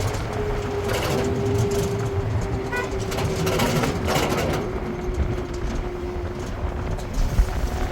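A vehicle driving, with a low rumble and a steady whine that slowly drops in pitch.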